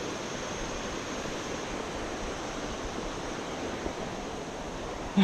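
Steady rushing of river water flowing past, an even noise with no breaks.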